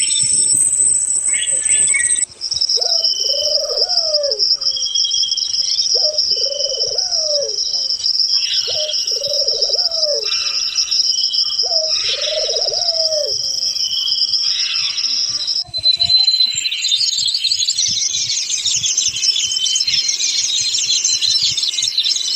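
Forest birds and insects: a steady high insect drone with a low, arched cooing call repeated four times about two seconds apart. About two thirds of the way through, the sound changes suddenly to a dense chorus of high chirping.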